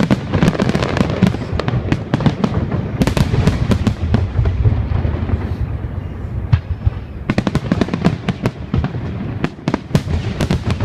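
Fireworks display: a rapid, dense barrage of bangs and crackling over a low rumble, thinning briefly about two-thirds of the way through, then building again.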